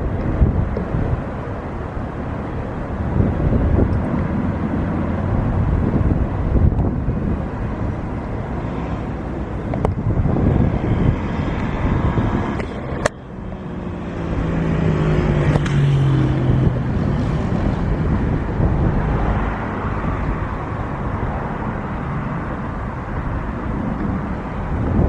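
Jet airliner engines running as the aircraft passes, a steady loud rumble with wind buffeting the microphone; about halfway through, a low tone slides downward for a few seconds as it goes by.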